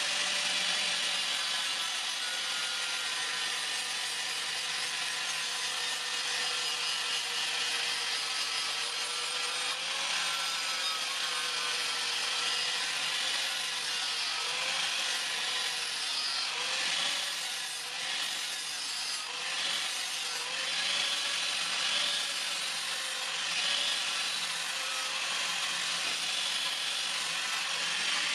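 Electric power tool grinding metal: a steady motor whine over a continuous hiss, the whine dipping and recovering several times as the tool is pressed into the work.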